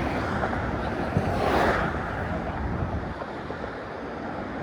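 Wind rushing over a sock-covered phone microphone, a steady noisy rush that swells in a gust about a second and a half in.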